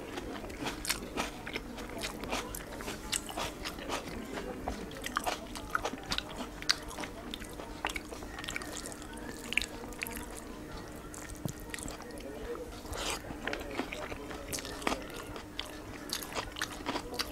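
Close-up mouth sounds of a person eating rice and chicken by hand: chewing and biting with many small irregular clicks and crunches. A faint steady hum runs underneath.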